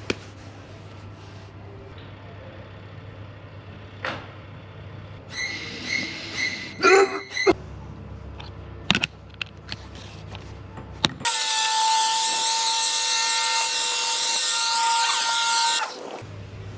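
Scattered clicks and knocks, then a power tool runs with a loud, steady whine for about four and a half seconds before cutting off suddenly.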